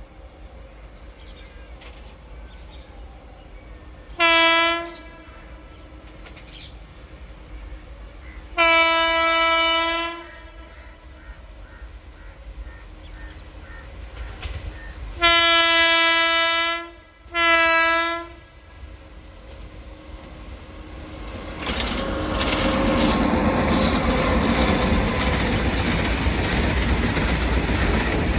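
Indian Railways electric locomotive horn sounds four times, a short blast, a long one, then a long and a short, each on one steady pitch, as a goods train approaches. Then the loud rolling rumble and wheel clatter of loaded open freight wagons passing close by.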